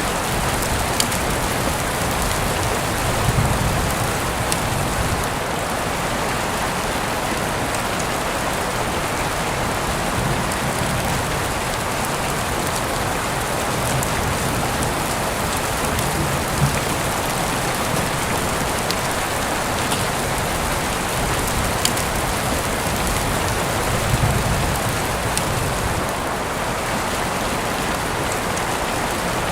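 Heavy rain falling steadily, a dense hiss with individual drops ticking through it. A low rumble swells briefly twice, a few seconds in and again near the end.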